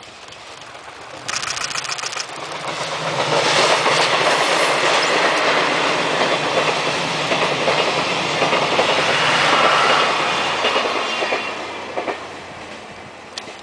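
Locomotive-hauled passenger train passing, its wheels clattering over the rail joints. It comes in sharply about a second in, is loudest through the middle and fades out about twelve seconds in.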